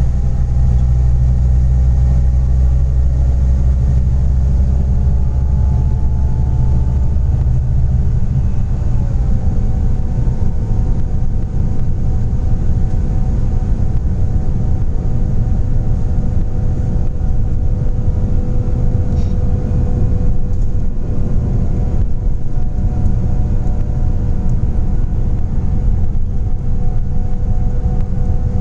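Scania Interlink coach's natural-gas engine running under way, a steady low drone with a held tone above it. The note shifts about nine seconds in, as with a change of speed or gear.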